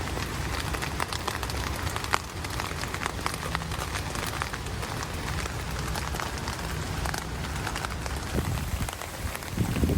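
Light rain falling on a tent, heard from inside: a steady hiss with many separate drops ticking on the fabric, over a low steady rumble.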